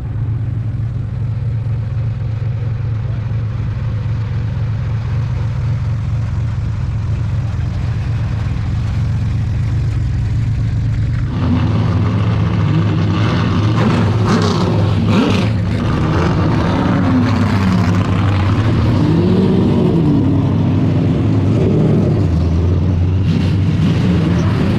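V8 race car engine heard on board at racing speed: a steady low drone, then about halfway through it gets louder and brighter, its pitch rising and falling several times with the throttle.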